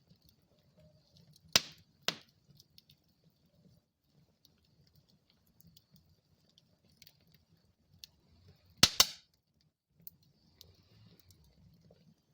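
Wood fire crackling in a fireplace: faint ticks over a low rumble of flame, with two sharp pops from the burning wood near the start, half a second apart, and a quick double pop about two-thirds of the way through.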